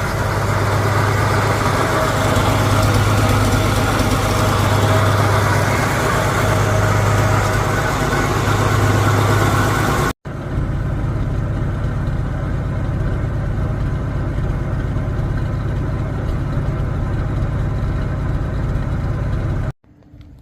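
1971 Toyota Land Cruiser FJ40's engine idling steadily. It comes in two stretches joined by a sudden cut about halfway, and the second stretch sounds duller than the first.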